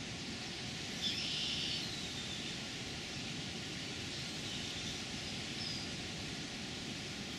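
Steady rushing outdoor background noise, with one short, high bird call about a second in.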